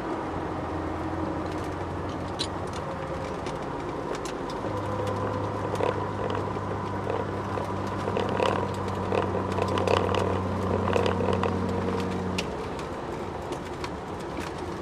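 Ford Sierra XR4x4 twin-turbo V6 idling in neutral, cooling down after hard track laps, with scattered light clicks and ticks. A second, deeper steady hum comes in about five seconds in and stops near the end.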